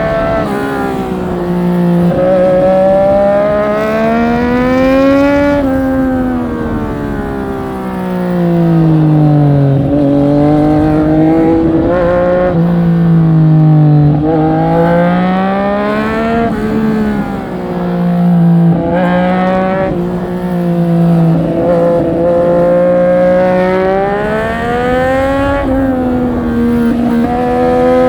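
Triumph Street Triple 765 RS's three-cylinder engine, heard from onboard, pulling hard through the gears: the revs climb, drop back with each shift or corner and climb again, over and over.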